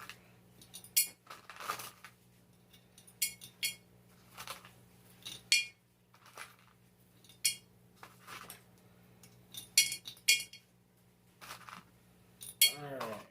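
Flat black stones, taken for slate, being slid in and set down, clinking and clicking against each other and the container, about a dozen separate clinks at irregular intervals.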